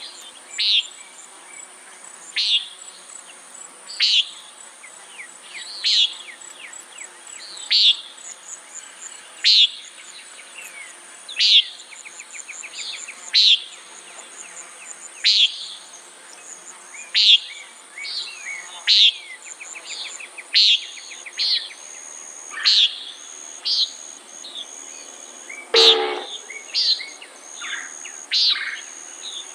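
Common nighthawk repeating its short 'peent' call about every two seconds, the calls coming closer together later on, over a steady high drone of insects. Near the end one louder call reaches lower in pitch than the rest.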